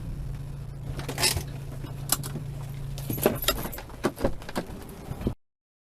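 Car cabin sound: a steady low engine and road hum, with scattered light clicks and jingling rattles that grow busier in the last couple of seconds. The sound then cuts off abruptly.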